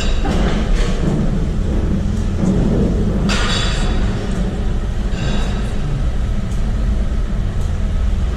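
Steady low rumble of a vehicle in motion, with a brief hiss about three seconds in.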